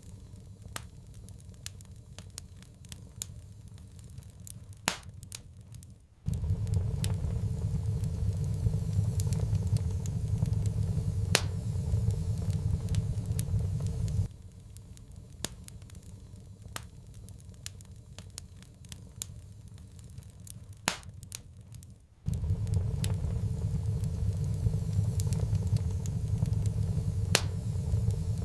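Wood fire in a fireplace crackling, with frequent sharp pops and snaps. A low rumble of the fire comes in abruptly about six seconds in, cuts out around fourteen seconds and comes back around twenty-two seconds.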